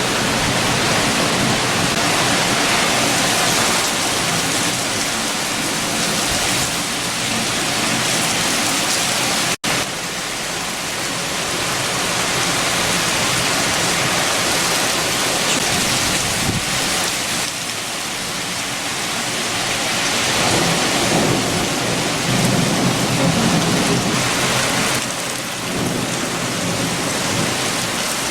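Heavy rain with strong wind, a steady dense hiss. It cuts out for an instant about ten seconds in.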